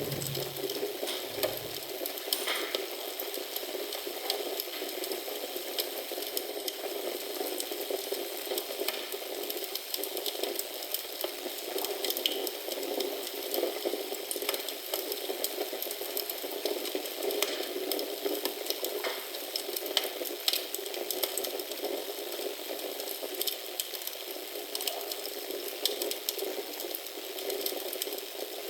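Wood fire crackling in a fireplace: a steady hiss of burning with frequent small pops and snaps.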